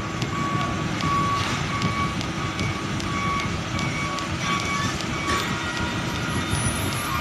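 Container truck's reversing alarm beeping steadily, about one and a half beeps a second, over the low rumble of its running engine.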